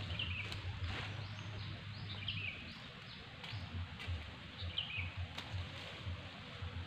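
Small birds chirping in short bursts a few times over steady outdoor background noise, with a few sharp clicks and a choppy low rumble.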